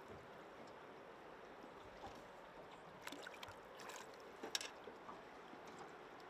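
Faint, steady rush of river water, with a few light sharp clicks scattered through it, the loudest about four and a half seconds in.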